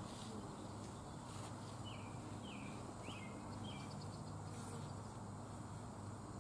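Outdoor ambience: a small bird chirps four short quick notes about two to three seconds in, over a steady low hum and faint background noise.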